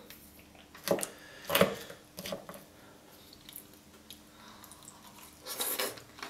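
Eating sounds: a few short crunchy bites and chews of air-fried waffle with Nutella and whipped cream, then a louder bite as another forkful goes in near the end.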